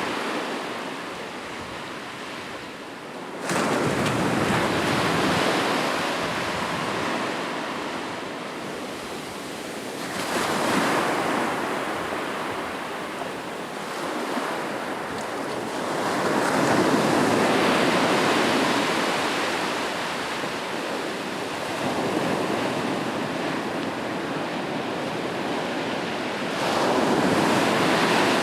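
Ocean surf breaking on a beach: five waves, each coming in about every six seconds as a rush that swells and then slowly washes back.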